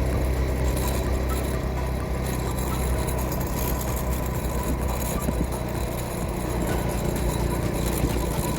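Scooter engine running steadily while riding, with a constant rushing noise over it.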